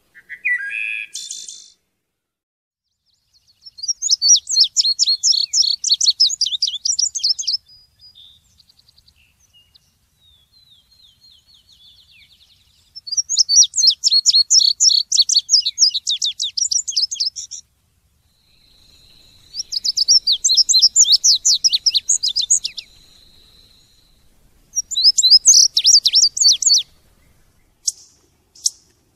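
A songbird singing in long phrases of rapid, high-pitched notes. There are four phrases of a few seconds each, with pauses of softer twittering between them, and the third phrase is led in by a steady held note.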